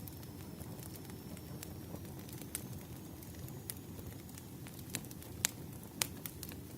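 Bonfire burning: a steady low rumble with scattered sharp crackles and pops, a few louder pops in the second half.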